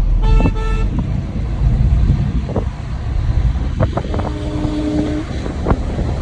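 Car driving on a mountain road with a steady low rumble. A horn sounds briefly near the start, and a lower-pitched horn sounds for about a second about four seconds in.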